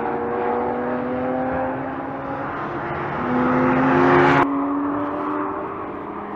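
Lamborghini Aventador's 6.5-litre V12 on its stock exhaust, accelerating away, its engine note climbing. About three seconds in the pitch drops as if on an upshift and climbs again, louder. The sound breaks off abruptly at a cut, and the V12 goes on fainter and steadier as the car passes farther away.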